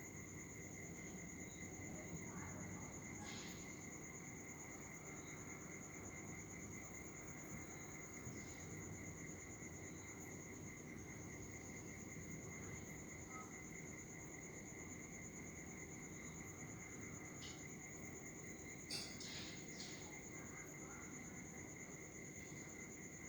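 Faint budgerigar chirps: a short call about 3 s in and a couple more around 19 s, over a continuous high, pulsing trill.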